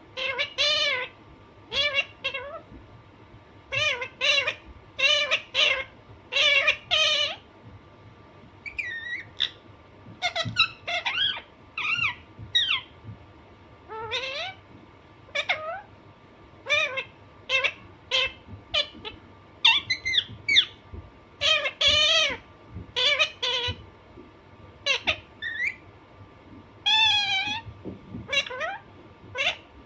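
Alexandrine parakeet calling: a long series of short, pitched calls in quick clusters with brief pauses, some sliding up or down in pitch, and one wavering call near the end.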